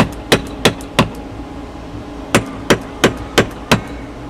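Caulking iron struck repeatedly with a mallet, driving caulking into a wooden boat's plank seam. The sharp knocks come about three a second: four, a pause of over a second, then five more.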